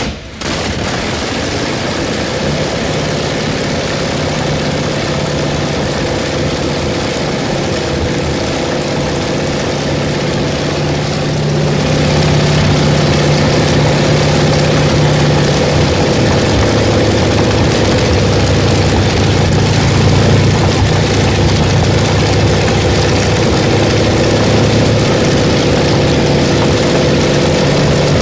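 Large vintage engine running steadily, getting louder about twelve seconds in and settling to a slightly lower pitch a few seconds later.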